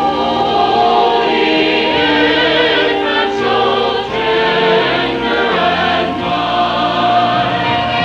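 Church chancel choir singing a Christmas cantata, with long held notes that waver slightly.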